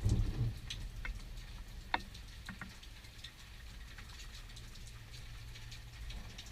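Rain during a thunderstorm: scattered drops ticking and pattering close by over a faint steady hiss, with one sharper drop click about two seconds in. A low rumble dies away in the first half second.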